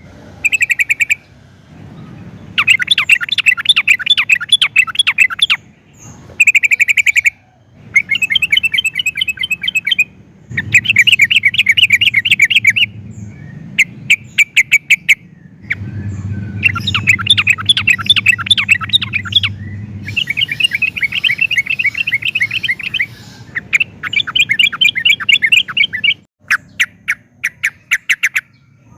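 Yellow-vented bulbul (trucukan) singing: loud phrases of rapid, chattering notes, each about one to three seconds long, repeated one after another with short pauses between them.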